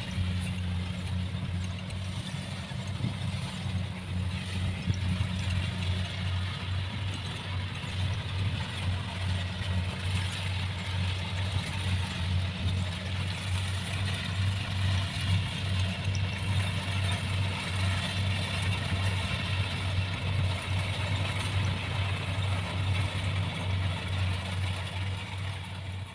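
Combine harvester's diesel engine running steadily with a strong low hum and an even mechanical hiss above it.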